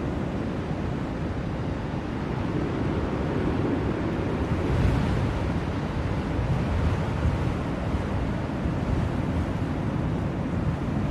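Blizzard wind blowing as a steady low rush, swelling briefly in a gust about five seconds in.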